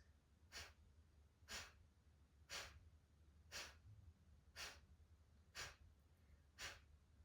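Kapalabhati breathwork: a woman's short, sharp, forceful exhales through the nose, one about every second, seven in a row, each a brief puff of air.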